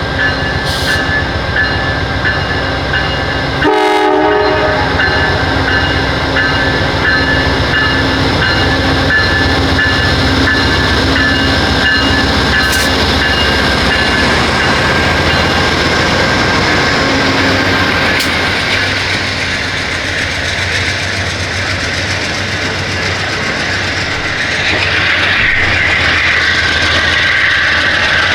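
Train passing close by: a continuous rumble of cars over the rails with rail clatter and steady high-pitched squealing tones. A short horn blast comes about four seconds in.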